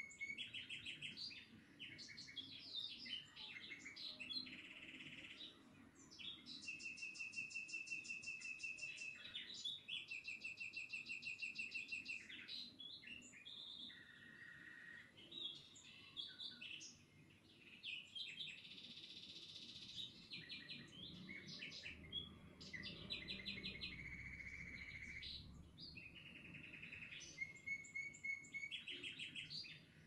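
Songbirds chirping and singing, with fast trills and short repeated chirps.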